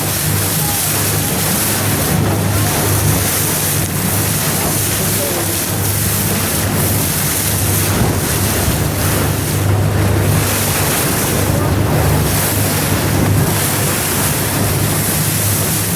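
Boat motor running with a steady low hum under loud wind noise on the microphone and the rush of waves against the hull.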